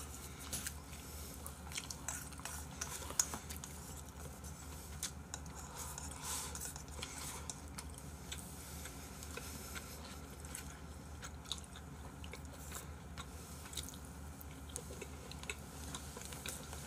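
Quiet chewing of food, with scattered light clicks of chopsticks against a bowl and dishes, over a low steady hum of room tone.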